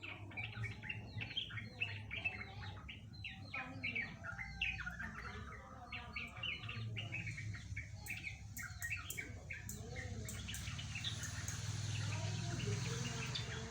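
Yellow-vented bulbul (trucukan) singing a long, unbroken run of rapid, warbling notes, a rolling song likened to a straw-headed bulbul's. A run of short, sharp clicks comes in the second half, over a steady low hum.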